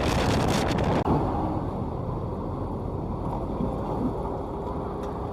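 Motorcycle riding along a road: wind rushing over the microphone over the engine and road noise. The wind is strongest in the first second, then eases to a steadier, lower rumble.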